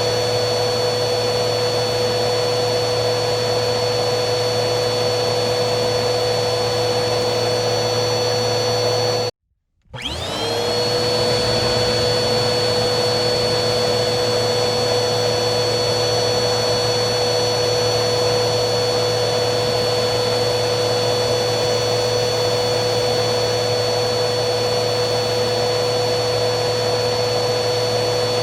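Vacuum cleaner motor running steadily, a rushing hiss with a high whine over it. About nine seconds in it cuts out abruptly for half a second, then starts again, its whine rising as the motor spins back up to speed.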